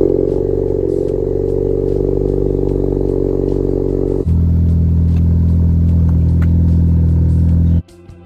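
A car engine running loud at steady revs, then about four seconds in a deeper, steady engine note takes over abruptly, and it cuts off suddenly near the end.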